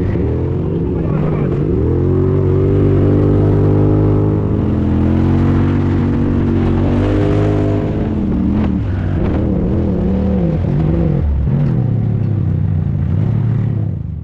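Motor vehicle engine running hard and revving up and down, its pitch rising and falling repeatedly.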